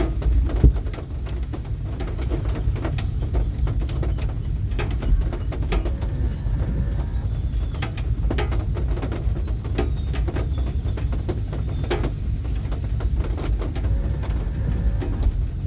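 Rain falling, with irregular drips tapping close by over a steady low rumble.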